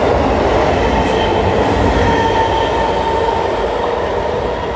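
MEMU electric train pulling out of the station past the platform, its coaches rolling by with a steady rumble and a thin high whine, fading slightly near the end as the last car draws away.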